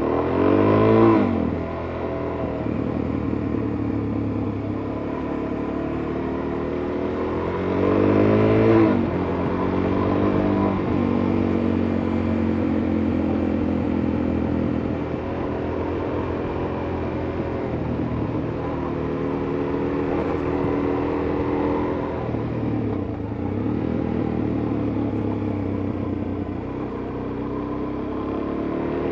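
Suzuki DR-Z400S single-cylinder four-stroke engine under way, revving up and dropping back on a shift about a second in and again at around eight seconds, then holding a steady cruising note.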